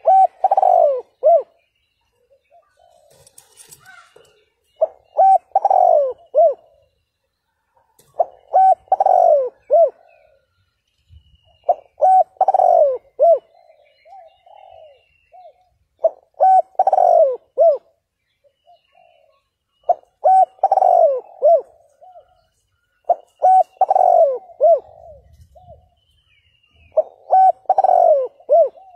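Spotted dove cooing: a short phrase of several coos, repeated about every four seconds, eight times over. This is the dove's territorial song, the kind played to rouse wild doves.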